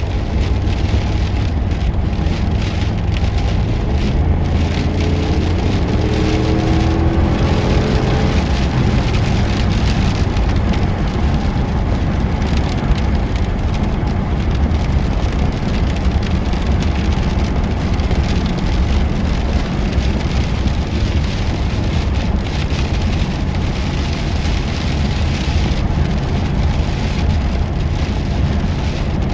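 Plow truck driving on a wet mountain road: steady engine and tyre rumble with a wet road hiss. The engine note climbs for a few seconds about five seconds in as the truck accelerates.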